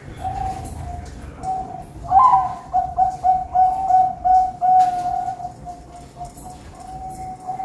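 Zebra doves (perkutut) cooing: a string of short coos at much the same pitch, with a louder run of quick notes from about two seconds in.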